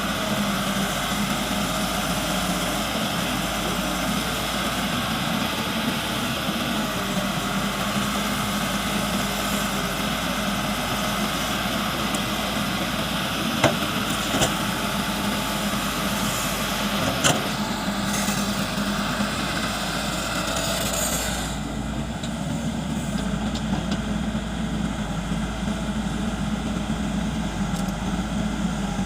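Caterpillar excavator's diesel engine running steadily, with a few short clicks near the middle.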